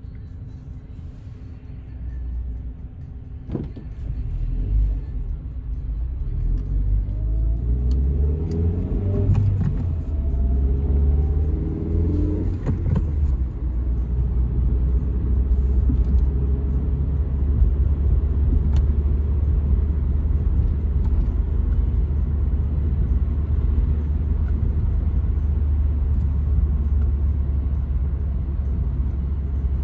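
1995 Toyota Carina E's 1.6-litre 16-valve four-cylinder engine pulling away, its pitch rising in several climbs over a few seconds, then settling into a steady low drone of cruising with road rumble. A sharp click comes about three and a half seconds in.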